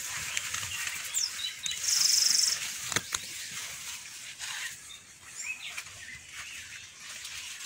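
Small birds chirping and calling in short high notes, with a loud, buzzy trill lasting about half a second near two seconds in. A single sharp click comes about a second later.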